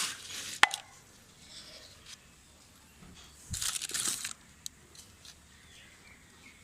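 Handling noises: two short bursts of crinkling and rustling, one at the start ending in a sharp click and another about three and a half seconds in.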